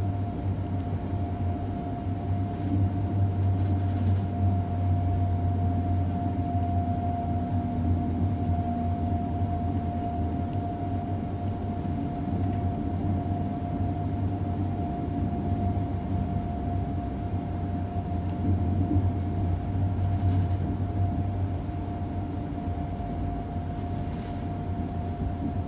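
Inside the front passenger compartment of an ICE 3 high-speed electric train rolling slowly through a station: a steady low rumble with a constant mid-pitched hum over it.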